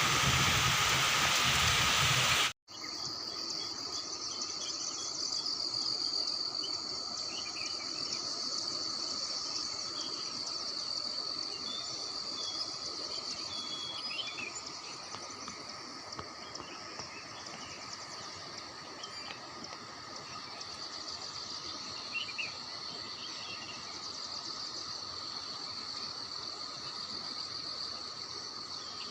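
Heavy rain hissing for the first couple of seconds, then an abrupt cut to a steady, high-pitched insect chorus with a few short chirps over it.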